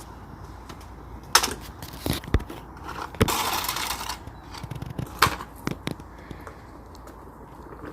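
Scattered knocks and clatters, with a short hiss about three seconds in.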